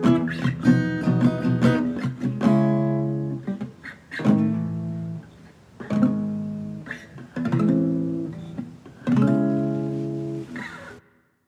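Acoustic guitar played in an improvised passage: quick strummed strokes over the first two seconds, then single chords struck about every one and a half to two seconds and left to ring and fade, cut off suddenly near the end.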